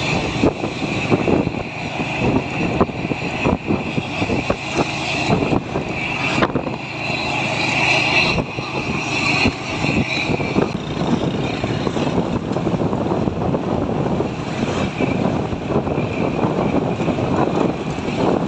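A truck on the move: steady engine and road noise with irregular small knocks and rattles.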